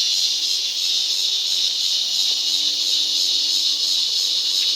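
Cicadas singing: a steady, unbroken high-pitched buzz.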